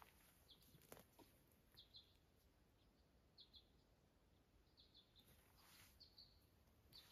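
Near silence of a forest with a faint, high bird chirp, often doubled, repeating every second or two.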